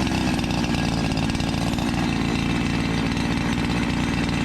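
Two-stroke chainsaw running at steady high revs.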